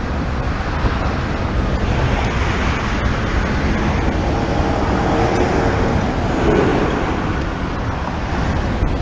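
Freight train cars rolling slowly past on the track, a steady rumble of wheels on rail, mixed with wind noise on the microphone.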